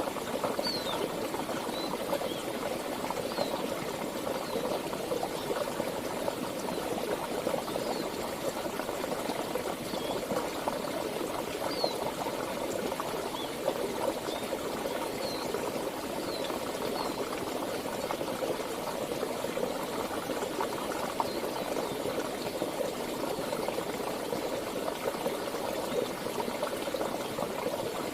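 Flowing river water babbling steadily over rocks, a dense, even rush full of small splashes. Short, faint, high bird chirps come and go through the first half.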